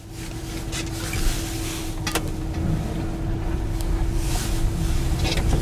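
Steady low rumble with a constant hum inside a truck cab, broken by a few brief rustles and a sharp click about two seconds in.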